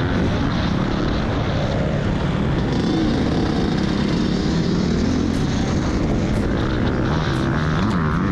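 Motocross bike engine running, its revs rising and falling repeatedly as the throttle is worked.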